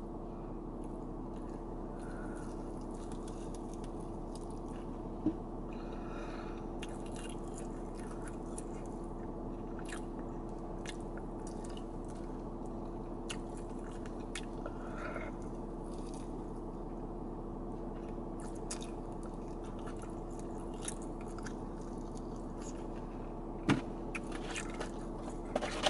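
A person chewing and biting into chicken wings, with small wet clicks and crunches, over a steady low hum in a car's cabin. A couple of sharper clicks stand out, one about five seconds in and a louder one near the end.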